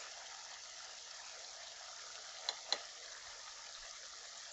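Tomato stew frying in oil in a pot, a steady soft sizzle as the water cooks out of the tomatoes. Two light clicks a little past halfway.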